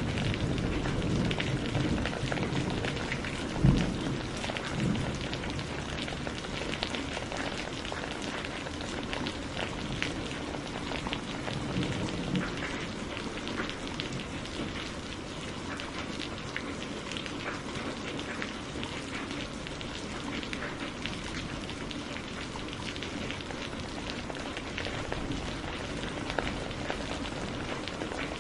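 Steady rain falling, with many small drops pattering and ticking on a surface. A low rumble runs through the first few seconds, and a single sharp low thump comes about four seconds in.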